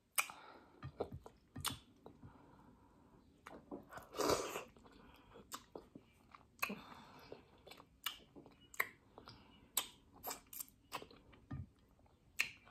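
Close-up chewing of a mouthful of beef tripe and fufu, with irregular wet mouth clicks and smacks and one louder burst about four seconds in.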